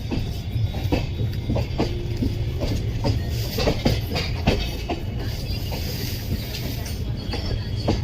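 Humsafar Express passenger train running at speed: a steady low rumble of wheels on rail, with irregular knocks and clatter as the wheels pass over rail joints and points.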